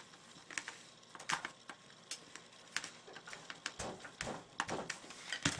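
Scattered clicks and taps of airsoft revolver parts being handled as a piece is pushed through with a hard tool, with a cluster of heavier knocks a little past the middle.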